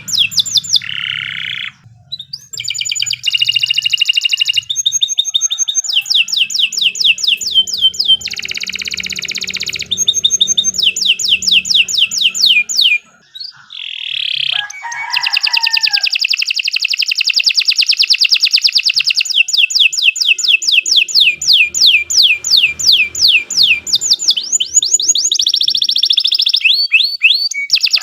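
Domestic canary singing a long, continuous song: fast trills of repeated sweeping notes that change to a new phrase every few seconds, with brief pauses about two seconds in and near the middle.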